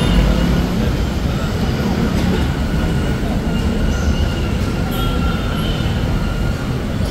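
Manila MRT Line 3 train running, heard from inside the car: a steady low rumble of wheels on track, with faint high squealing tones from the wheels coming and going.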